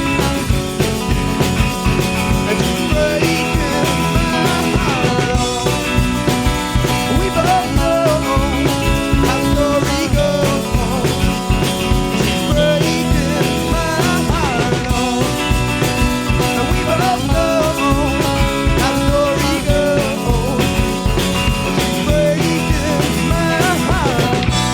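Live rock band playing an instrumental passage: steady drums and bass under guitars, with a lead melody sliding up and down in pitch over the top.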